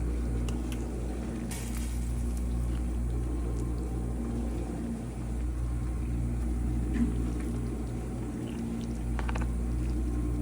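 A covered pot of soup bubbling as it comes to the boil on the stove, over a steady low hum.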